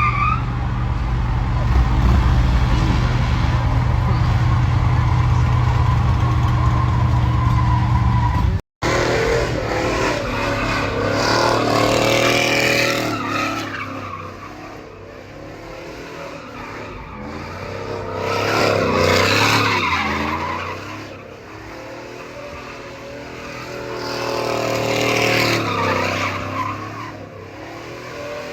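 A vehicle engine running steadily, then after a cut, tires squealing on pavement in three long swells that rise and fade, as vehicles skid and spin at a street meet.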